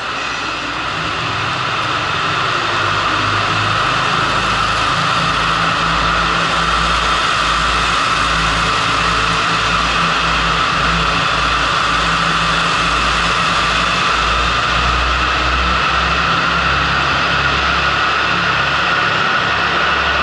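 Train standing at a station platform with its equipment running: a steady mechanical drone with an uneven low throbbing underneath, growing a little louder about two seconds in.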